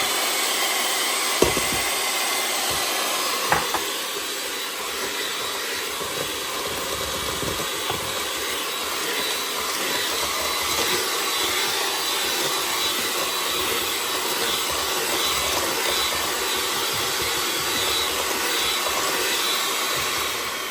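Electric kitchen mixer running steadily, beating banana bread batter, with two sharp knocks about one and a half and three and a half seconds in.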